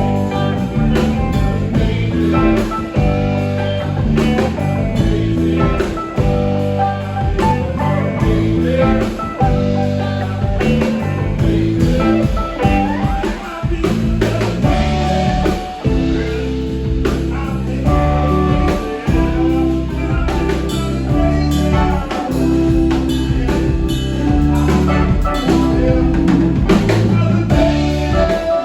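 Live band playing: guitar over steady bass notes and a drum kit, at full volume throughout.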